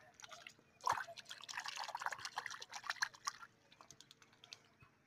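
Shallow puddle water splashing and dripping in quick, irregular, fairly faint spatters, starting about a second in and thinning out to a few drips after about three and a half seconds.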